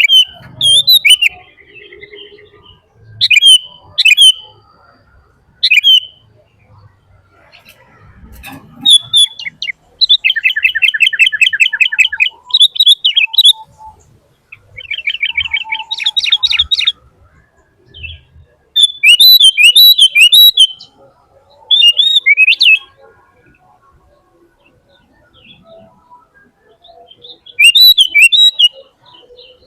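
A bird calling loudly and close by in separate bursts of sharp chirps and squawks, with two rapid, evenly pulsed trills and a dense run of chirping, each burst followed by short quiet gaps.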